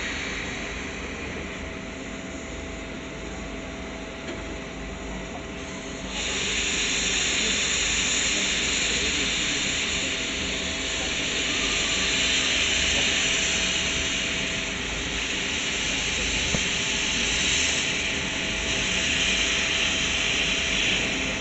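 C62 2 steam locomotive letting off steam: a steady hiss that suddenly grows louder and sharper about six seconds in and carries on.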